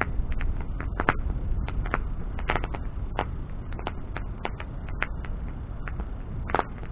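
Wood bonfire burning: irregular sharp pops and crackles, several a second, over a steady low rush.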